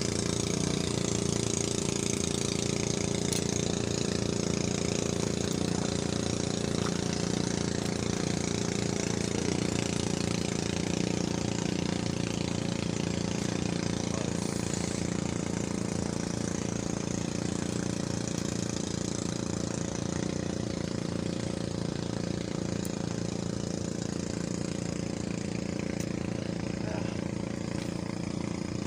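An engine running steadily at an even speed, without revving up or down.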